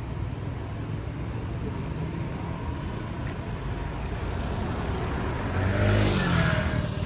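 A car passing close by on the street, its engine and tyre noise swelling to a peak about six seconds in, then dropping in pitch as it goes past, over a steady traffic rumble. A brief click sounds about three seconds in.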